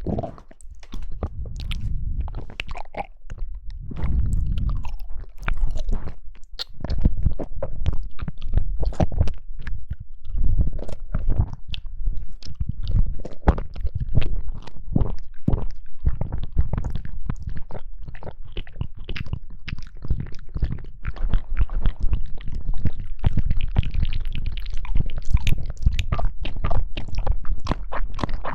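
Close-miked chewing of jelly: a continuous run of wet, squishy mouth sounds with many quick clicks and low thuds.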